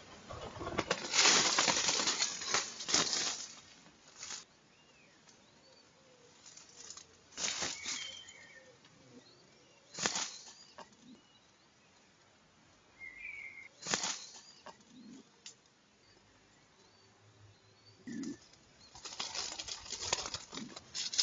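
Wood pigeon wings flapping in bouts at the nest. The longest and loudest run is about one to three seconds in, with shorter flurries later, and faint small bird chirps in the quiet gaps between.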